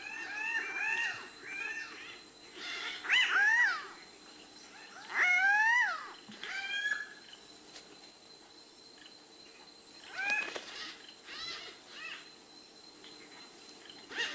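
Male cocks-of-the-rock calling at their display ground: short, harsh calls that rise and fall in pitch, a quick run of them at first, the loudest calls around three and five seconds in, then scattered fainter calls.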